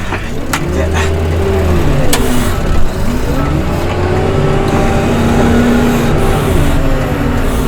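Diesel engine of snow-clearing heavy machinery working, its pitch rising and falling repeatedly under changing load, with a few sharp knocks and clanks.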